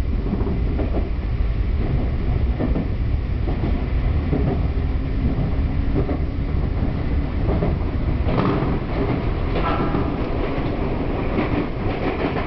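A Sotetsu Line express train running at speed, heard from inside the carriage: a steady low rumble of wheels on rail, with irregular clacks over rail joints that come more often and louder in the second half.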